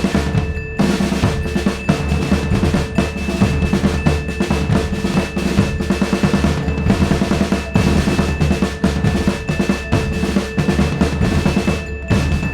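Drum-heavy music: fast, dense drumming over a few steady held tones.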